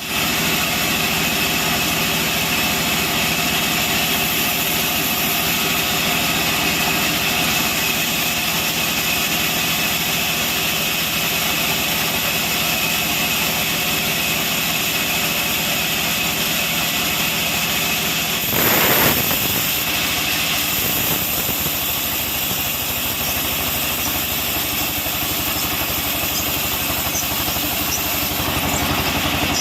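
Sawmill machinery running steadily: a continuous mechanical hum with a thin high whine. About 19 seconds in, a brief louder rush stands out.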